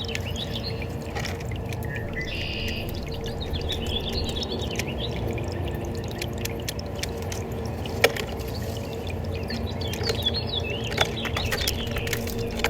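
Small birds chirping in short, quick, twittering phrases over a steady rush of flowing water, with a sharp click about eight seconds in and a fainter one near the end.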